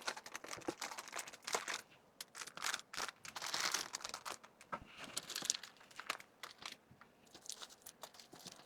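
Packaging crinkling and rustling in irregular bursts as small items are handled and packed.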